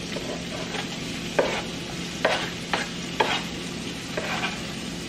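Shallots and garlic sizzling in olive oil in a frying pan, a steady hiss, with a few short scrapes and clicks of kitchen utensils spread through it.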